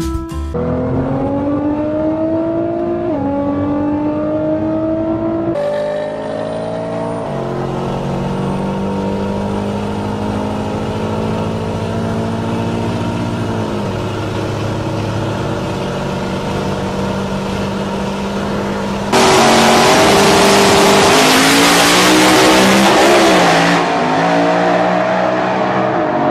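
Twin-turbocharged 5.0 Coyote V8 Mustang accelerating hard, its pitch climbing and dropping at each gear shift, then holding steady at high speed. About nineteen seconds in, it cuts to a louder, harsher car engine at full throttle for several seconds.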